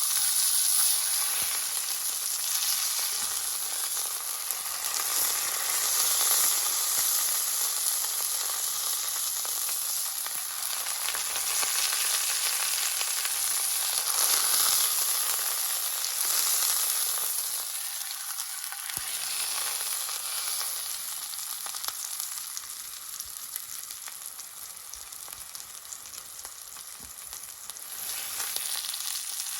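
Beef sizzling in a cast-iron skillet: a steady frying hiss that eases off in the last third and picks up again near the end.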